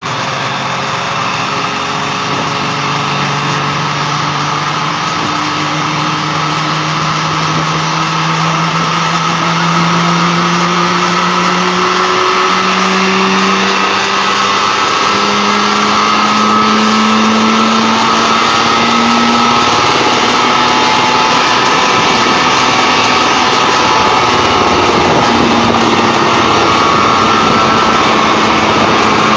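Car engine of a homebuilt ultralight helicopter running, its speed and pitch rising slowly over the first twenty seconds or so, then holding steady.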